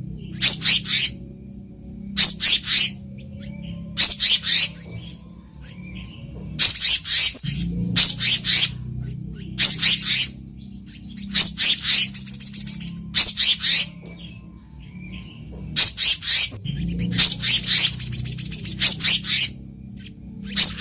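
Black-naped monarch calling: repeated short bursts of quick, high, sharp notes about every second or two. A low steady hum runs underneath.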